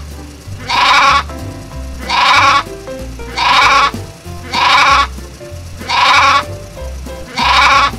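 Sheep bleating, six separate bleats about one every 1.2 seconds, over background music with a steady bass line.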